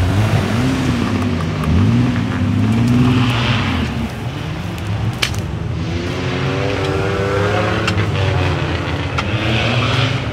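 Off-road 4x4 SUV engines racing through the course: an engine revved up and down several times in quick succession, then steadier engine running with another rev rising later on, with a few sharp clicks.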